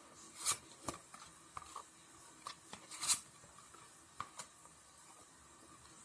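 Tarot cards being handled and laid down: two quick sliding swishes, about half a second and three seconds in, among light taps and clicks.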